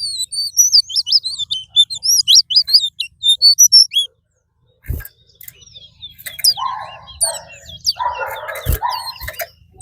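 A caged 'fire red' seed finch singing a fast run of sharp, rising-and-falling chirped notes for about four seconds, then breaking off. Scattered short chirps follow, over a noisy rustle near the end and a couple of dull thumps.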